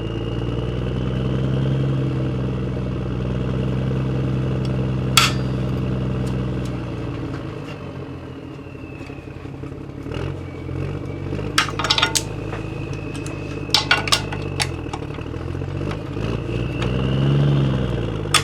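A motor engine runs steadily for several seconds, then its pitch rises and falls in a few swells. Several sharp metallic clanks of hand tools on the engine come through, one about five seconds in, a cluster around twelve to fourteen seconds, and one near the end.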